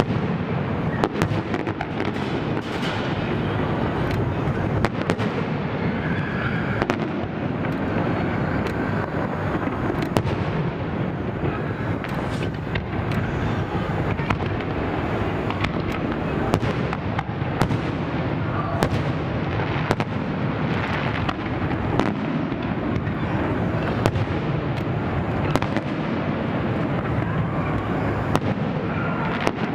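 Fireworks display going off: a continuous rumble of shell bursts with frequent sharp bangs throughout.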